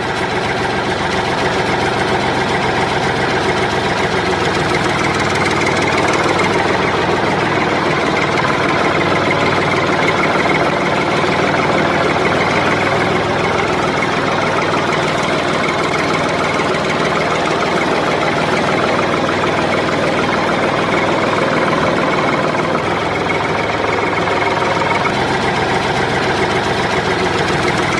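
Small tractor engine running steadily at a constant speed.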